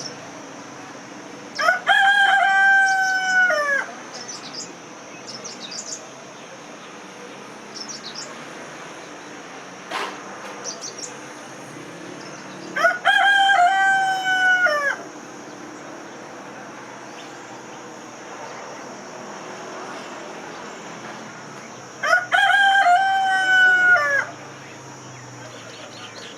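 Rooster crowing three times, each crow about two seconds long and roughly ten seconds apart, with a few faint small-bird chirps between them over a steady high hiss.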